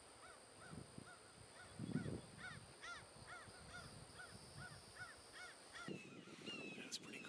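Faint bird calls repeated over and over, about two short rising-and-falling notes a second, over a steady high whine. A dull thump sounds about two seconds in. Near the end, sharper falling chirps take over.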